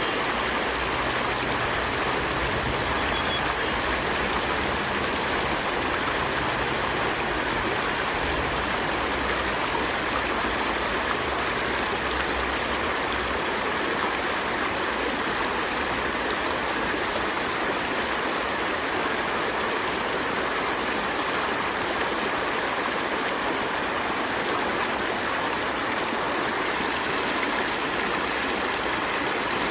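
River stream flowing, a steady rushing and babbling of water over rocks.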